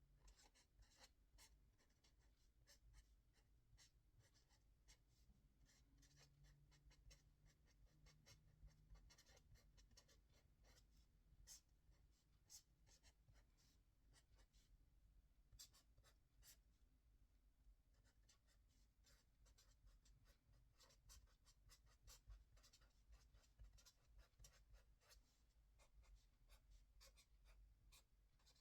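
Faint pen writing: many short scratching and tapping strokes as figures are written out, over a steady low hum.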